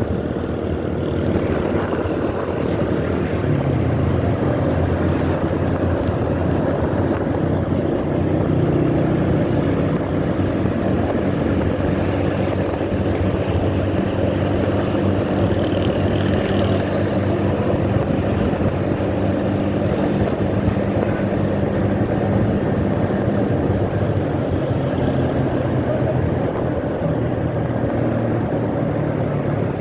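Motorcycle engine running steadily while riding, its hum shifting in pitch a few times as the speed changes, over road noise.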